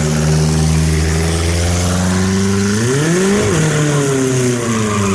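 Kia Spectra's four-cylinder engine through an open exhaust, held at high revs. Around three seconds in the revs climb briefly, then drop sharply and settle back to a steady run.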